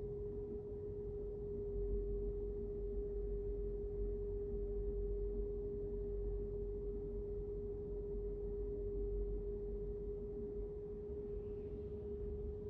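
Low road and engine rumble inside a moving car, with one steady pure tone humming throughout; the rumble grows a little about two seconds in.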